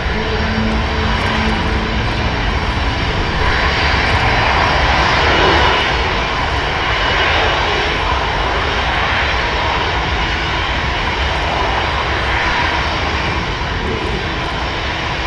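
Aircraft engine running loud and steady, a dense rushing noise whose hiss swells a few times.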